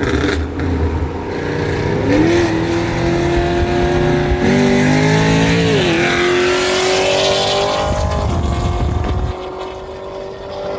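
Car engine accelerating hard, its pitch climbing steadily, dipping briefly about six seconds in, then climbing again before easing off near the end.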